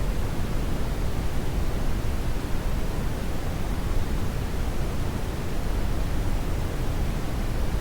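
Steady brown noise: an even, unchanging rumble-like hiss, heaviest in the bass and falling off toward the treble.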